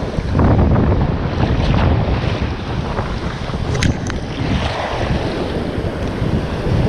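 Wind buffeting the microphone over waves washing on the shore, with two brief sharp clicks about four seconds in.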